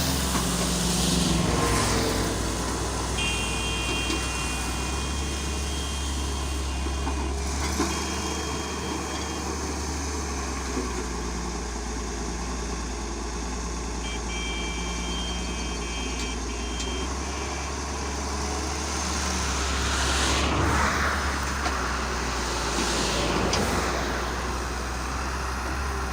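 A heavy vehicle's engine running with a steady low hum. A high electronic beeping tone sounds for several seconds twice, and two brief swells of noise come near the end.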